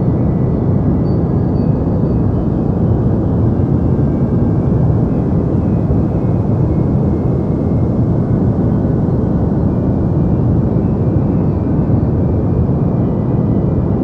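Deep white noise: a steady, unchanging rush of sound with most of its weight in the low end and little treble.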